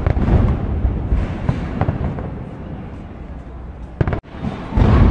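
Aerial fireworks going off overhead: a heavy boom right at the start, then crackling bursts, and another heavy boom near the end.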